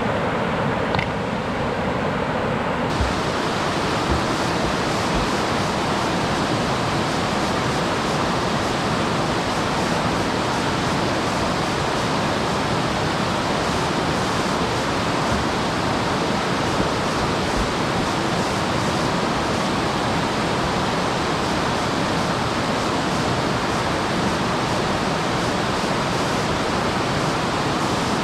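Steady, loud rush of falling water, an even hiss with no breaks. About three seconds in it becomes brighter and fuller in the highs.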